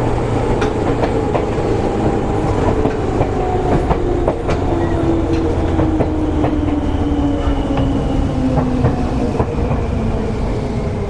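Onboard running sound of a Seibu 101-series electric train motor car: a low-pitched traction motor hum that falls steadily in pitch from about four seconds in as the train slows, over a constant rumble and the clacks of wheels crossing rail joints.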